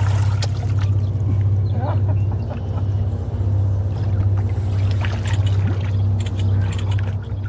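Boat engine running: a steady low hum, with light scattered splashes and knocks over it.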